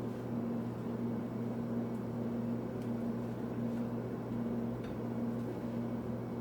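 Steady low hum of a running appliance or fan motor, with a faint click about five seconds in.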